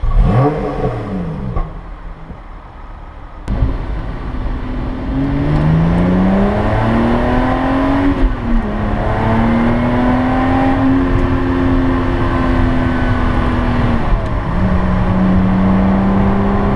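Lotus Exige S Club Racer's supercharged Toyota 3.5-litre V6 revved in quick blips at a standstill. Then, heard from inside the cabin while driving, it pulls up through the revs, with a dip in pitch about halfway and a lower, steadier drone near the end.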